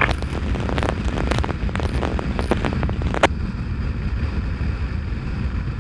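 Wind rumbling on the microphone of a moving motorcycle, with the engine running underneath. A run of sharp clicks and crackles in the first three seconds, then a single click a little after three seconds.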